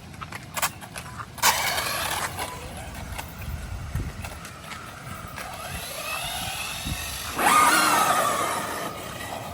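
1:8 scale RC buggy's electric motor whining, with a rising and falling pitch, in two bursts of acceleration: one about a second and a half in and a louder one near the end.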